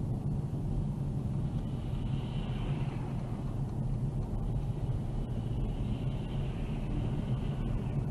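A car driving, with the steady low rumble of engine and road noise.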